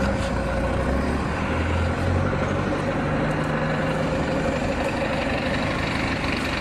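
A steady engine or motor drone running at constant speed, with a steady whine over a low hum.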